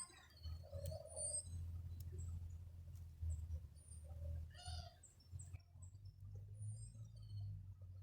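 Small wild birds chirping: short, high, downward-sliding calls repeated every second or so over a low steady hum.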